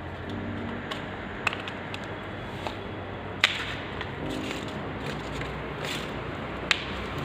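Scattered knocks and clicks as a new scooter tyre and alloy rim are handled, the loudest knock about three and a half seconds in, over a steady low background hum.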